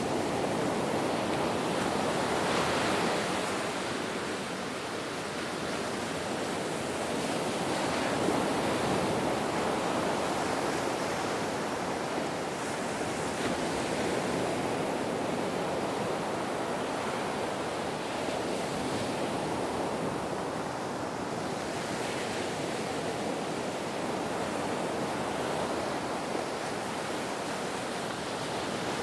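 Ocean waves breaking on the shore in a steady wash of surf, swelling and easing slowly every several seconds.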